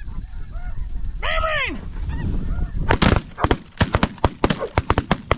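Snow goose calls, a string of short honks with one loud drawn-out honk about a second in. From about three seconds a rapid run of sharp clicks takes over and is the loudest sound.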